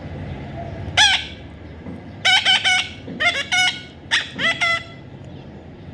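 Pet parrot calling: a single call about a second in, then three quick runs of short, rising calls about a second apart.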